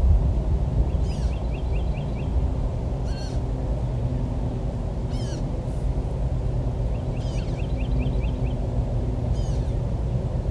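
Wild birds calling over a steady low rumble. High falling calls come about every two seconds, and twice there is a quick run of about eight short, even notes.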